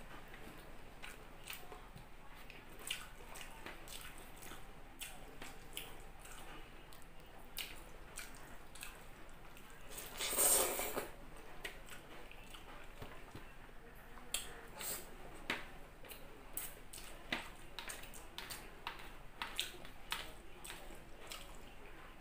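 Close-up eating sounds: a person chewing soft rice and eggplant omelette, with many wet mouth clicks and smacks. About ten seconds in comes one louder rush of noise lasting about a second.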